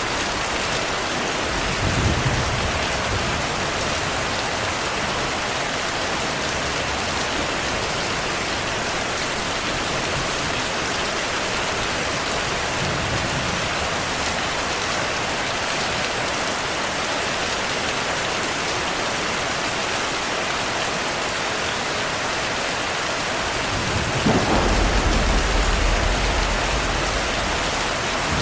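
Steady rainfall with thunder rumbling: a brief low rumble about two seconds in, a faint one midway, and a longer, deeper roll of thunder near the end.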